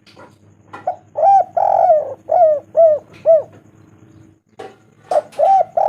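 Spotted dove (tekukur) cooing: a phrase of about six short, arched coos with one longer note in the middle. After a pause of about two seconds, the next phrase begins near the end.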